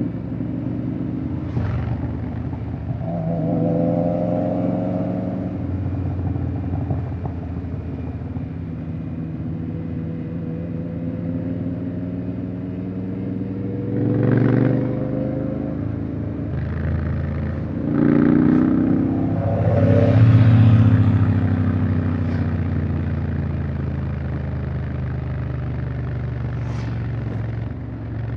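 Honda X-ADV 750's parallel-twin engine running under way, its pitch stepping up and down as it changes gear. It swells louder twice, about fourteen and twenty seconds in.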